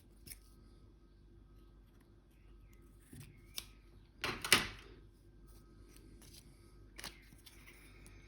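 Small objects being handled on a work surface: a few light taps and clicks, with one louder knock about four and a half seconds in.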